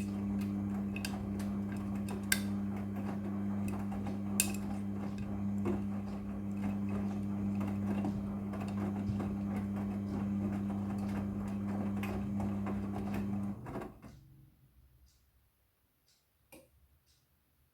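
Midea front-loading washing machine running with a steady, even hum and a few light clicks, then shutting off about three-quarters of the way through.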